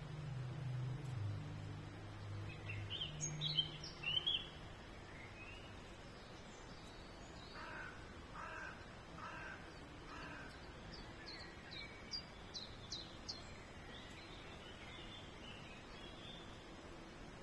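Birds chirping and calling. High quick chirps come a few seconds in, then a run of four lower calls about halfway, then thin high chirps. A low steady hum lies under the first few seconds.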